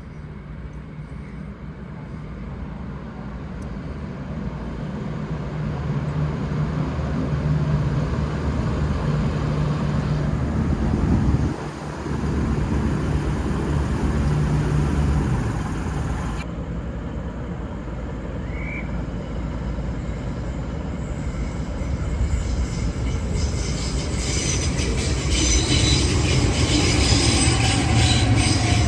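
V/Line VLocity diesel multiple unit running into the station, diesel engines and wheels on the rails getting steadily louder as it approaches. Sharper metallic wheel-and-rail noise builds in the last few seconds as it draws up close.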